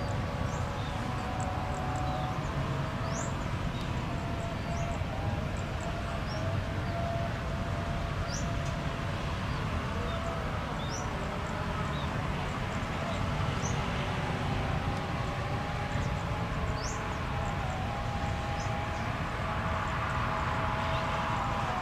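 Jet aircraft running at takeoff power: a steady rumble with a slowly wavering whine, and faint short high chirps about once a second.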